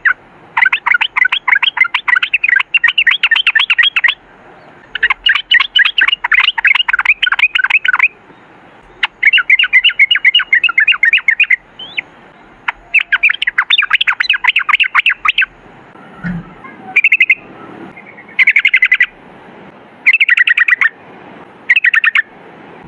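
Yellow-vented bulbul (trucukan) singing long, rapid rolling chattering phrases, several seconds each, that break into shorter one-second bursts in the second half.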